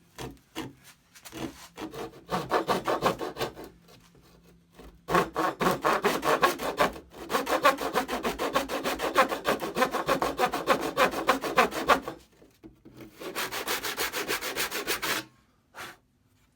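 A hand tool rubbing and cutting across the wood of a pallet board in rapid back-and-forth strokes. It comes in bursts: a few short ones at first, then a long stretch, then a shorter one near the end.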